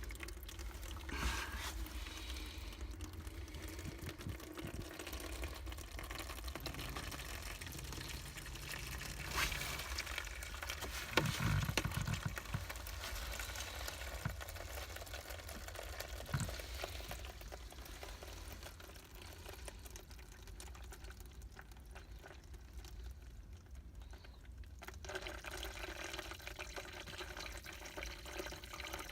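Water running and trickling steadily, with a few light knocks along the way, growing quieter in the second half.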